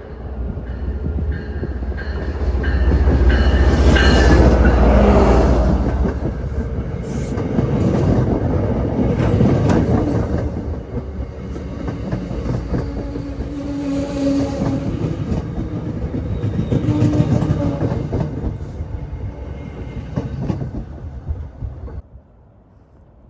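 An MBTA commuter rail train passing close by, with a heavy low rumble loudest in the first few seconds as the locomotive goes by. After that come the cars clattering over the rail joints, with a few short wheel squeals. The sound cuts off near the end.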